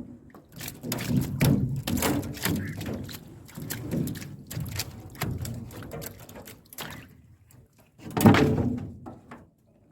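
Irregular knocks and thunks with water sloshing as a fish trap is pulled up and handled against a boat, with one louder knock and splash about eight seconds in.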